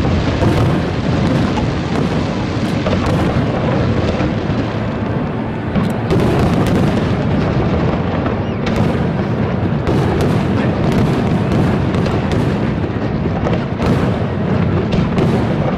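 Fireworks show: aerial shells bursting in quick succession, the bangs running together into a continuous loud barrage.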